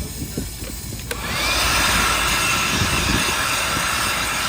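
An air blower switches on with a click about a second in, a short rising whine as it spins up, then a steady rush of air, blowing dirt out of the car.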